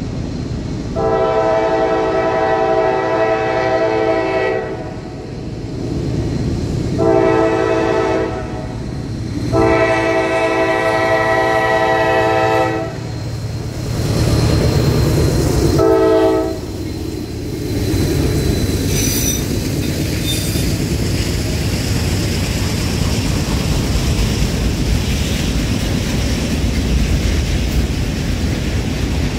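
Diesel freight locomotive's air horn blowing the long, long, short, long grade-crossing signal as the train approaches. The locomotive then passes with a low engine rumble, and a string of autorack freight cars follows, rumbling and clacking over the rail joints, with a short high wheel squeal.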